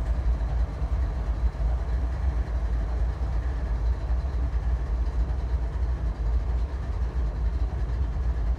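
Train rumbling steadily, a continuous low-pitched rumble with no distinct events.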